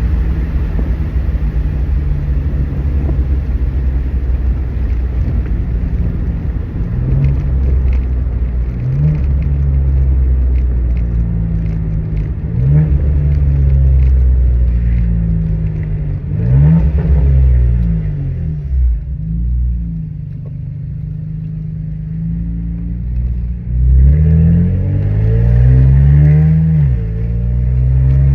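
BMW N54 twin-turbo straight-six, running catless downpipes and a muffler delete, under hard acceleration. The revs climb and drop several times as it pulls through the gears, with a quieter steady stretch past the middle.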